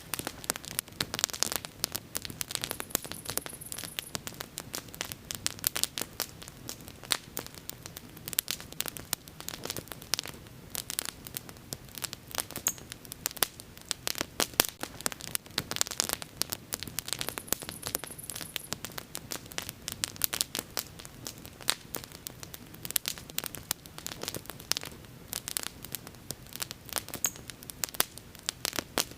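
Wood bonfire crackling: dense, irregular snaps and pops over a soft low rush of flame, with a brief high hiss twice.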